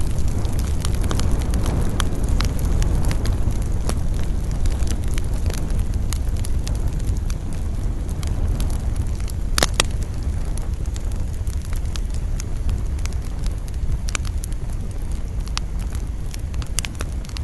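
Wood campfire crackling, with scattered sharp pops and one louder pop a little past the middle, over a steady low rush of wind.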